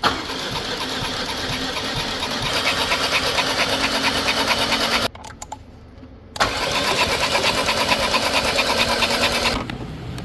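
2018 Range Rover Velar's 2.0 L petrol engine cranking on the starter without starting, in two attempts about five and three seconds long with a short break between. The crank-no-start is put down to a failed CVVL (continuously variable valve lift) solenoid.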